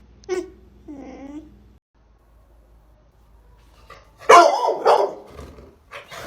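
A dog barking and vocalising: two short calls near the start, then a loud bark about four seconds in.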